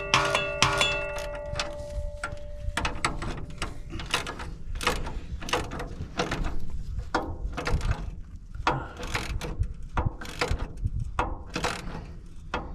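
A metal part struck at the start rings for a couple of seconds, then a ratchet wrench clicks steadily, about two or three clicks a second, as the driveshaft bolts are snugged up a little at a time.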